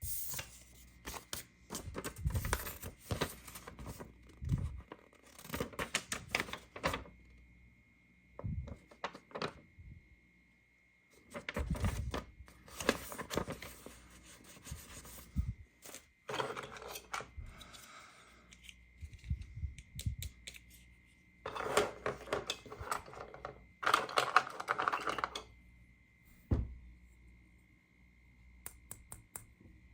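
Hands handling a plastic toy playset and its packaging: scattered clicks and taps, with several longer bursts of rustling, over a faint steady high tone.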